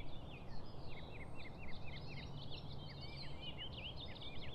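Birds chirping: a rapid, busy run of short chirps that drop in pitch, over a steady low rumble.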